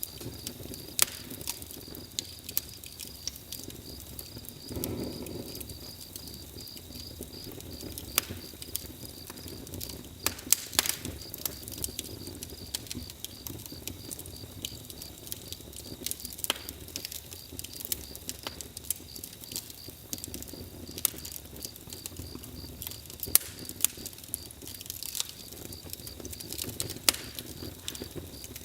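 Campfire crackling, with irregular sharp pops over a steady low hiss.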